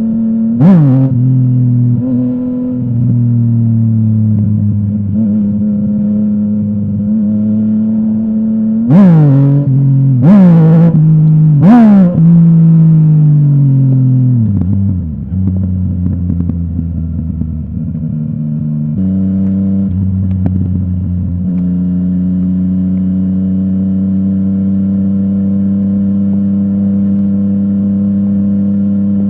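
Yamaha MT-09's inline three-cylinder engine through a full Akrapovic exhaust, running steadily with a sharp rev about a second in and three quick revs in a row around nine to twelve seconds in. The revs then fall away and the engine settles into a steady drone.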